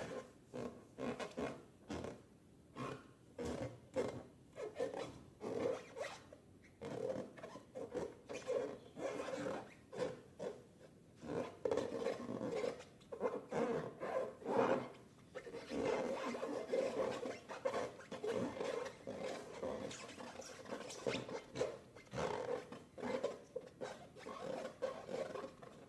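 Hands working slime and rubber balloons, making a run of irregular wet rubbing and squelching strokes, several a second, with no pauses.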